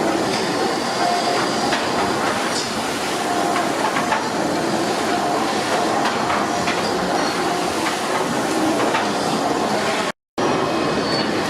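Fowler steam ploughing engine running: a steady mechanical clatter of its motion, with hiss and irregular light clanks.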